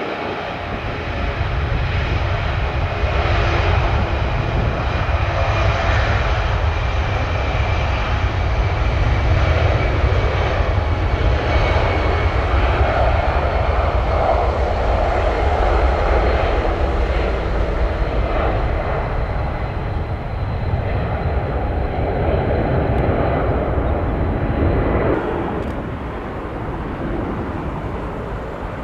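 Jet airliner's engines running loud and steady as it passes close by, a deep rumble with a faint high whine over it, dropping away about 25 seconds in.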